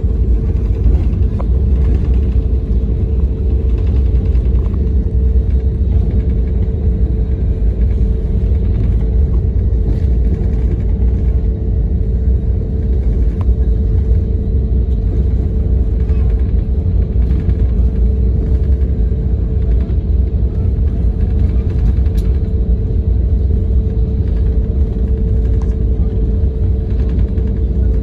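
Airliner engines heard from inside the passenger cabin on the ground, before the takeoff roll: a steady low rumble with a steady hum over it.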